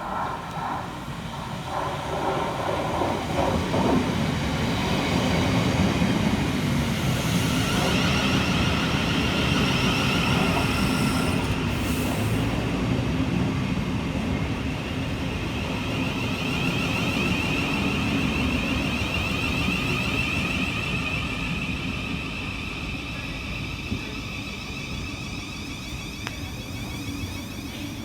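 Class 700 Thameslink electric multiple unit (Siemens Desiro City) running through the station, its sound building over the first few seconds, holding steady, then easing off near the end. A steady high whine runs through the middle, with the rumble of wheels on the rails underneath.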